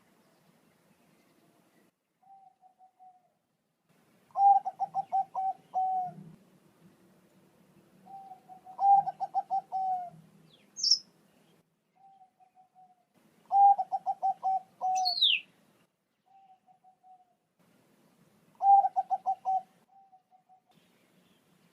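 Bangkok-type zebra dove (perkutut) cooing. It gives four loud phrases, each a quick run of staccato notes ending in a longer held note, with soft short coos between them. Two brief high chirps cut in, the second a quick falling whistle.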